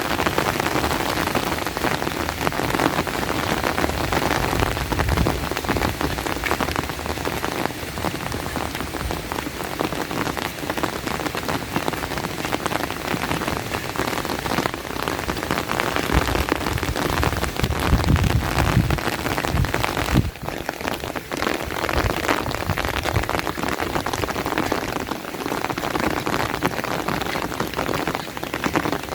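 Steady rain with many close drop hits, a dense crackle of impacts like rain on an umbrella, and a few brief low swells now and then.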